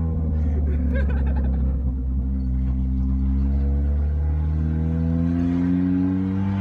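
Mitsubishi Eclipse's 420A four-cylinder engine, fitted with a cone-filter intake, heard from inside the cabin. The engine pitch falls as it slows, with a few clicks about a second in, then rises steadily as the car accelerates.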